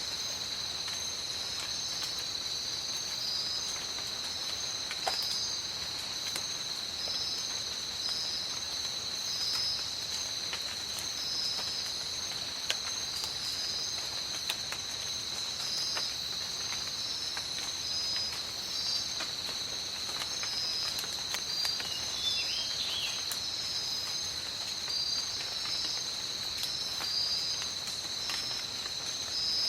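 Tropical rainforest ambience: steady rain with scattered drop clicks under a continuous high-pitched insect drone. A second insect call pulses about once a second above it, and there is a brief chirp about two-thirds of the way through.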